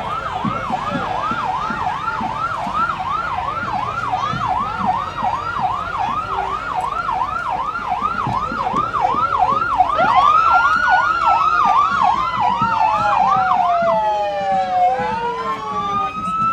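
Emergency-vehicle sirens. One sounds a fast yelp, about three rises and falls a second. About ten seconds in, a second siren comes in over it with a slower wail that rises and then falls.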